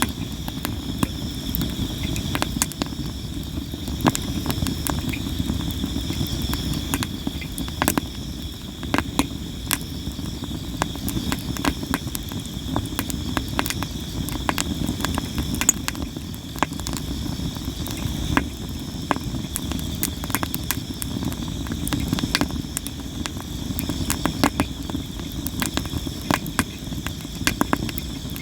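Campfire of sawara (Japanese cypress) wood burning with constant crackling and sharp pops at irregular intervals over a low steady rush of flame. Insects, such as crickets, keep up a steady high trill in the background.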